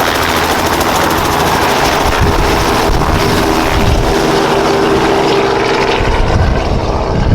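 Helicopter taking off and leaving, its rotor and engine loud and close. A steady hum comes in a few seconds in, and the high hiss dies away near the end as it moves off.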